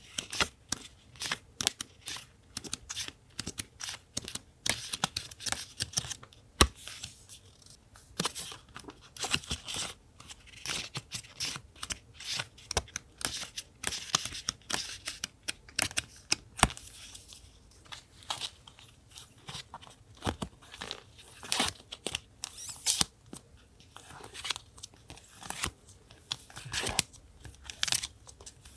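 Paper being torn and handled for a collage: an irregular run of short crackles, rustles and clicks, with a couple of sharper knocks on the desk.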